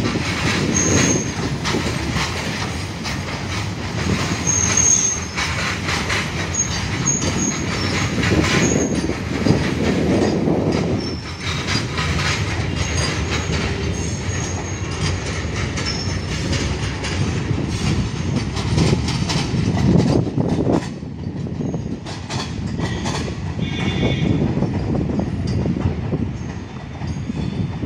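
Freight train wagons rolling past on broad-gauge track: a steady rumble of steel wheels on rail with clattering over the rail joints. Thin high wheel squeals come and go, most in the first ten seconds and again briefly near the end.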